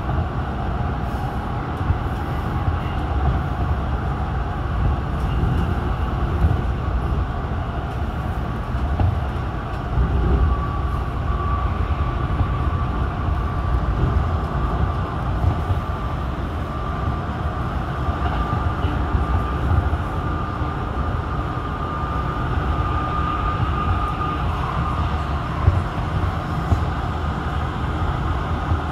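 AREX all-stop commuter electric train running at speed, heard from inside the carriage: a steady low rumble of wheels on track. A thin high whine comes in about a third of the way through and fades out past two-thirds.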